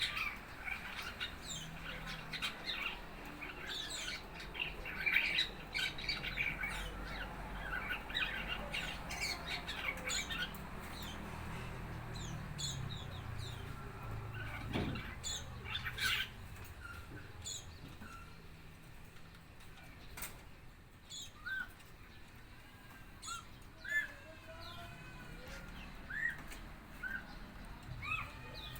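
A four-month-old red-eyed ara bird practising its song: many quick, high chirps and twitters packed close together in the first half, thinning later into fewer sliding, curving whistled notes.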